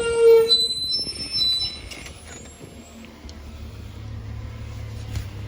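Garbage truck's brakes squealing as it slows: a loud, short squeal at the start, then thinner high-pitched squeaks, and from a few seconds in a steady low engine hum.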